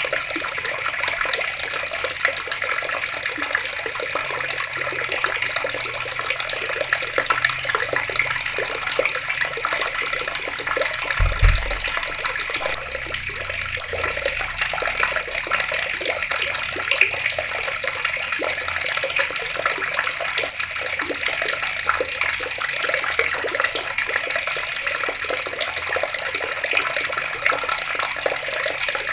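Water running steadily from an open tap, a continuous splashing stream. A brief low thump about eleven seconds in.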